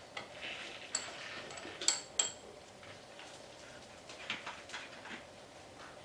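Hard metal objects clinking together three times within about a second and a half, each clink ringing briefly, followed by soft scattered ticks of handling.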